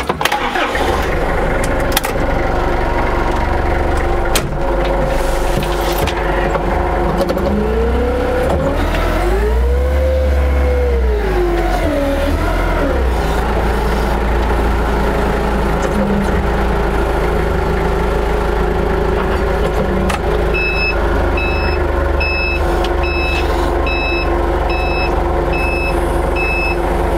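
Forklift truck running steadily. Around ten seconds in its motor rises in pitch and falls back, as when it works the hydraulics. From about two-thirds of the way through, its reversing alarm beeps at about one and a half beeps a second as it backs up.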